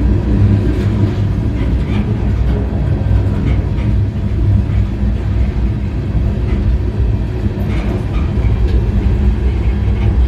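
A freight car rolling at speed, heard from on board on its end porch: a heavy, steady rumble of steel wheels on rail with occasional faint clanks.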